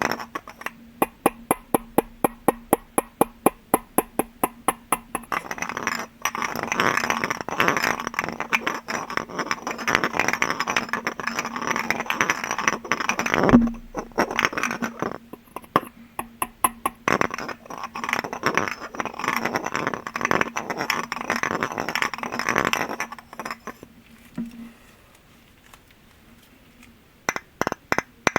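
Tapping on glass objects: a quick, even run of clicks at about six a second, then denser, busier tapping that falls quiet a few seconds before the end and starts again near the end.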